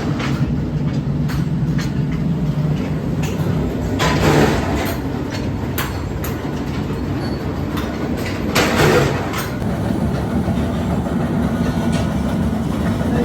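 Heavy metalworking machinery running with a steady low rumble, broken by metallic clanks and knocks; two louder clanks come about four and nine seconds in.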